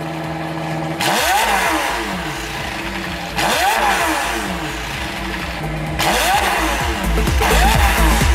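McLaren 720S twin-turbo V8 with a Novitec Inconel exhaust revved in about four quick throttle blips, each rising sharply in pitch and falling back toward idle.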